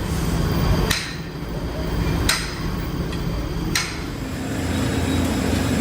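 Three sharp metallic hammer blows on metal, about a second and a half apart, each with a short ring, over the steady low running noise of workshop machinery. The machinery takes on a steady hum near the end.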